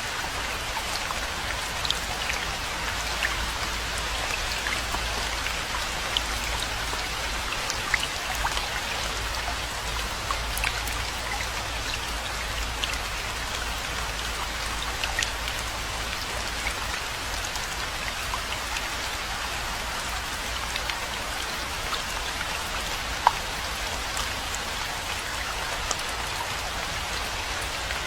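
Steady rainfall, an even hiss with many individual drops ticking sharply, over a steady low rumble.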